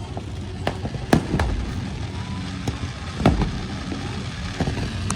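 Fireworks going off: several sharp bangs a second or so apart, the loudest about a second in and again past three seconds, with smaller pops and crackles between them.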